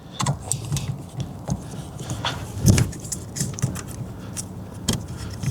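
Irregular light clicks, clinks and rattles of metal and plastic parts being handled at a car's steering column during an ignition lock cylinder job, with one louder knock a little before three seconds in.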